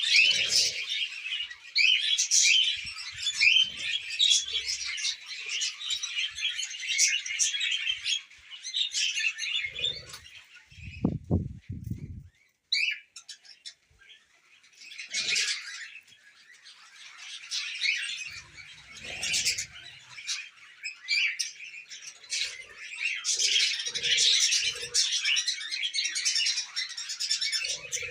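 Pet budgerigars chattering and warbling in fast, high chirps; they fall quiet for a few seconds in the middle, then start up again, thickest near the end. A short low rustle or thump sounds about eleven seconds in.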